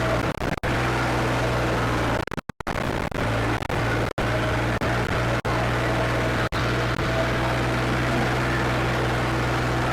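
Farmtrac 55 tractor's diesel engine, upgraded with Farmtrac 60 T20 pistons and a modified pump, running steadily with the tractor under way. The sound cuts out briefly several times.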